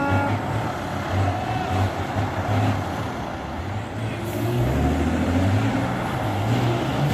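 Tatra truck trial truck's diesel engine working hard, a loud rumble with the revs rising and falling. There is a short hiss about four seconds in.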